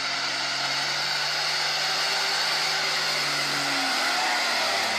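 A truck engine running steadily under a loud, even hiss.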